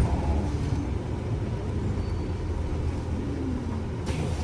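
City bus interior: a steady low engine and road rumble with a faint even hiss above it.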